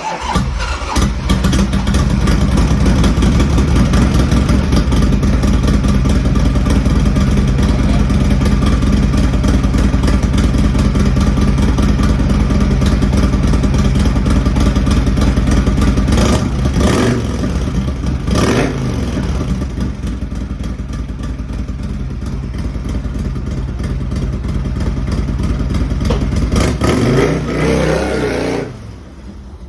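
Harley-Davidson Evolution 1340 air-cooled V-twin running just after a cold start. It gives two short throttle revs about halfway through, then runs steadily and goes quieter near the end.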